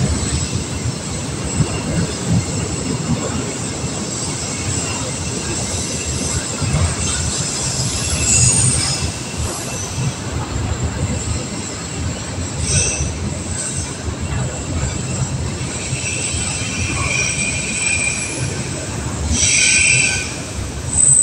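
Container freight train's wagons rolling past close by: a steady low rumble of steel wheels on the rails, broken by short high-pitched wheel squeals about eight and thirteen seconds in and a longer, louder squeal near the end.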